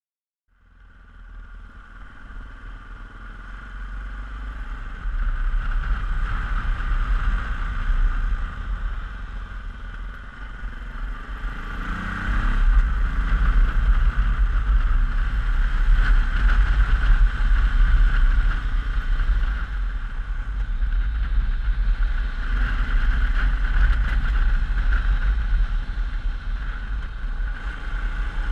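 Yamaha XT660Z Ténéré single-cylinder motorcycle ridden at speed, heard from an on-bike action camera: heavy wind buffeting on the microphone over the engine and road noise. The sound swells in over the first few seconds, and about twelve seconds in the engine pitch rises as the bike accelerates.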